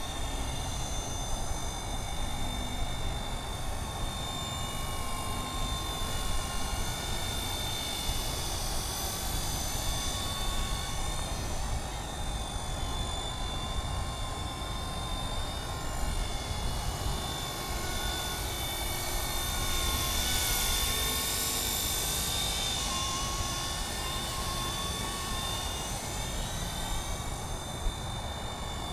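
MD 500 helicopter in flight: steady rotor noise with a constant high whine that wavers slightly in pitch, and a brighter hiss for a couple of seconds about two-thirds of the way through.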